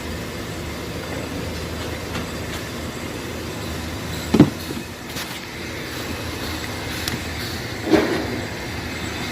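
Two sharp knocks, about four and eight seconds in, from hand work on a car's steering column during disassembly, over a steady background noise.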